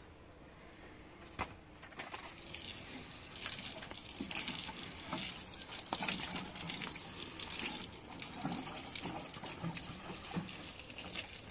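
Water running and splashing, uneven and strongest through the middle stretch, with a few sharp knocks.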